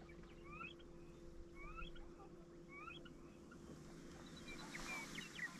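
A bird calling repeatedly: short rising chirps, about one a second, over a faint steady hum.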